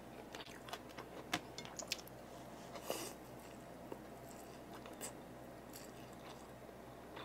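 Close-miked chewing of boiled pork and fried glass noodles, soft and wet, with scattered small sharp clicks from the mouth and fork.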